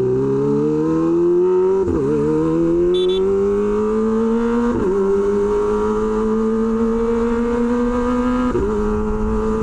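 Kawasaki Ninja ZX-25R inline-four with an SC Project H2 exhaust, accelerating under way. The engine note climbs in pitch and drops sharply three times as the bike shifts up, then holds at a steady cruise.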